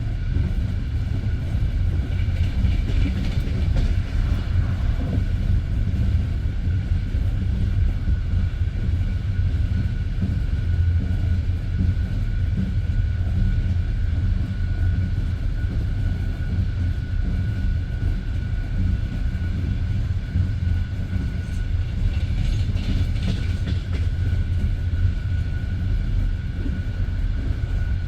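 Passenger train coach running along the line, heard from inside the carriage: a steady low rumble of wheels on rails with a thin steady whine above it.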